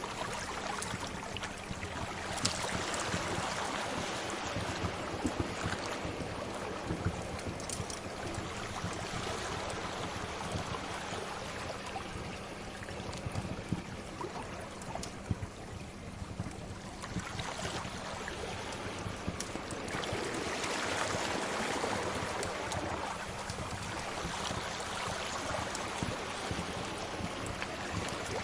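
Sea waves washing in and out, swelling twice, with the scattered pops and crackles of a wood fire over them.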